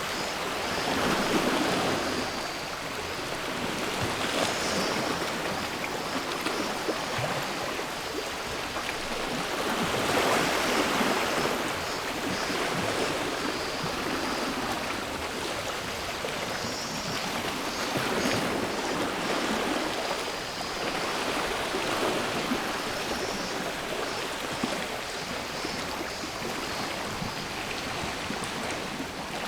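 Sea waves washing onto the shore, swelling and easing back every few seconds, with a faint, steady, high buzz of cicadas behind them.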